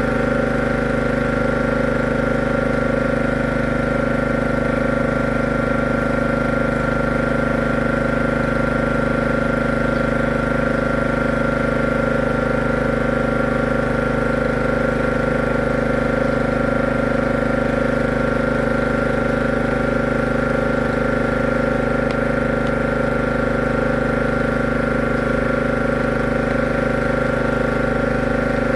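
A motor-driven machine running steadily, a constant hum of several fixed tones that does not change in pitch or level.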